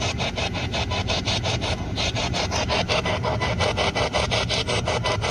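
Spirit box sweeping through radio stations: a steady rasp of static chopped into short pulses about seven times a second.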